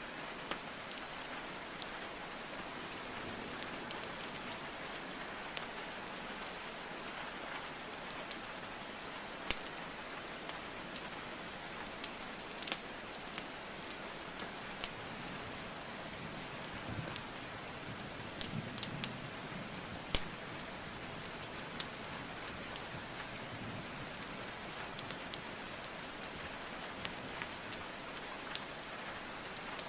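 Steady rain with a wood fire crackling over it: scattered sharp pops from the burning logs at irregular intervals, bunched most thickly a little past halfway.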